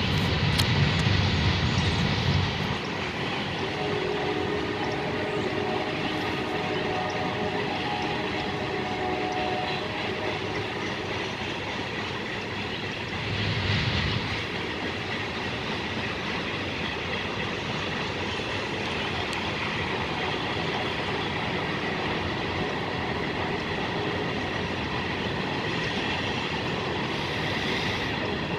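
Train rolling by on the rails: a steady noise of wheels on track, a little louder in the first couple of seconds and again briefly about halfway through.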